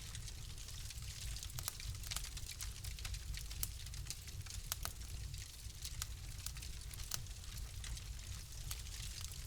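Wood fire crackling in a fireplace: frequent sharp pops and snaps at irregular intervals over a steady low rumble and soft hiss.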